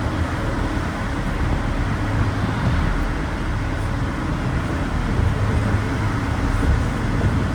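Steady low rumble and running noise of a cog railway train moving along its rack track, heard from inside the passenger car.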